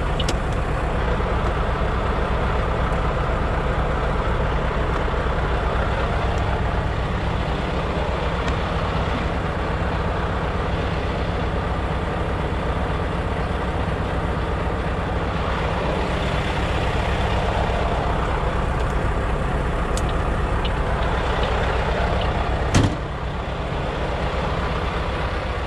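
Semi truck's diesel engine idling steadily, with a single sharp knock near the end.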